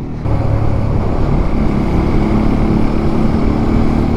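Motorcycle engine running at a steady cruising speed under loud wind rush on the microphone, which starts abruptly just after the beginning.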